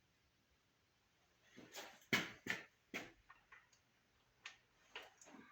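Metallic clicks and clinks of new valve lifters being handled and set into their bores in an engine block: a cluster of sharp clicks about two seconds in, then a few lighter ticks.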